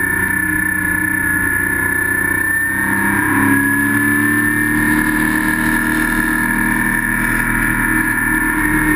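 Porsche Spec Boxster's flat-six engine running hard, heard from inside the race car's cabin. The engine note climbs about three seconds in as the car accelerates.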